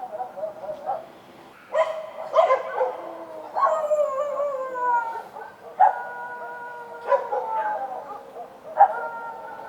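Street dogs barking and howling, several sharp barks mixed with long howls that slide down in pitch.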